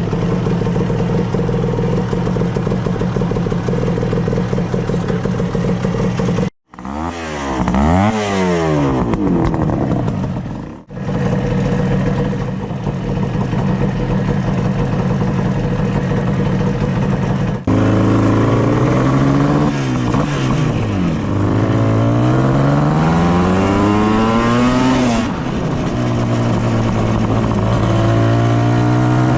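Motorcycle engines in a run of edited shots. Each engine runs steadily at first, then is revved so the pitch climbs and falls several times. It settles back to a steady run near the end.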